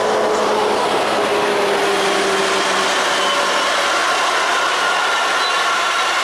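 Diesel-hauled freight train of tank wagons rolling past close by: a loud, steady rumble of wheels and engine, with thin ringing tones on top, one of which drops in pitch in the first few seconds.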